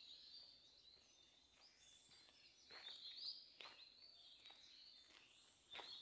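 Faint forest birdsong: small birds giving high chirps and short twittering phrases again and again, with a few soft knocks.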